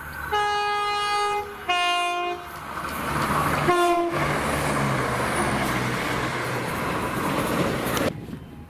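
Train's two-tone horn sounding a higher note and then a lower one, each about a second long, followed by a short third blast. Under and after the horn comes the loud, steady rushing of a passing train, which cuts off suddenly near the end.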